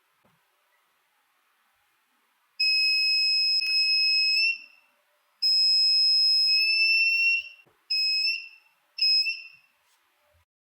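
Piezo buzzer alarm of a DIY flood detector going off as it detects water. It gives two long beeps of about two seconds, then two short ones, each a single shrill steady tone that bends slightly upward as it cuts off.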